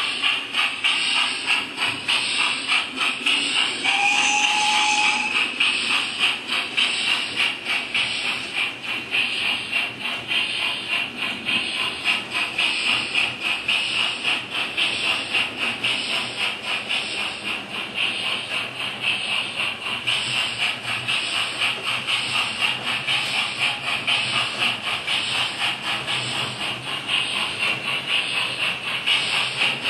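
Hornby 9F model steam locomotive's DCC sound decoder playing a steady run of rapid, even steam chuffs with hiss, through the model's small speaker. A short steady tone sounds briefly about four seconds in.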